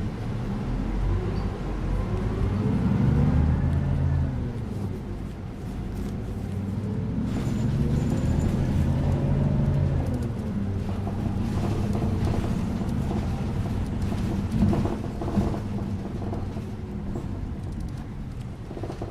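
Bus engine and drivetrain heard from inside the bus: a low rumble that swells twice as the bus pulls away and picks up speed, each time with a whine that glides up and then down. A few sharp rattles and knocks come a little past the middle.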